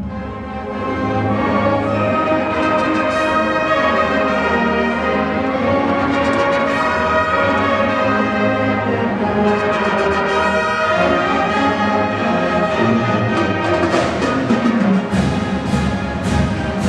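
Marching band playing: brass chords over low drums, with sharp percussion hits about twice a second near the end.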